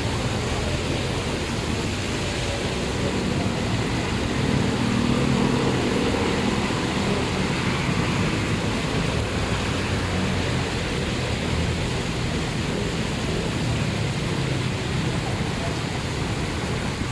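Heavy rain pouring down on a flooded road, with motorcycles, cars and a jeepney driving through the water, their engines and tyre splash swelling most strongly about five seconds in.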